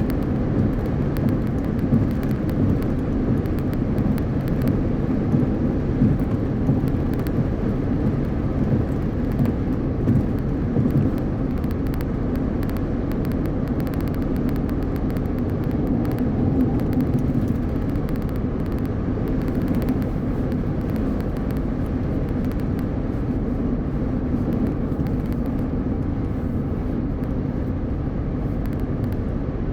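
Car driving at highway speed: a steady low rumble of tyre and road noise with wind.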